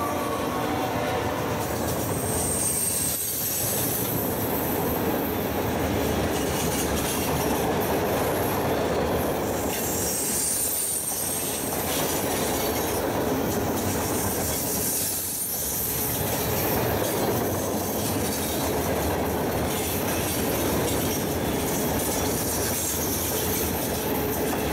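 A freight train's loaded ballast hopper cars rolling past with a steady rumble and rattle of wheels on rail, broken by brief high wheel squeals about two seconds in and again around eleven seconds. The sound cuts off suddenly at the end.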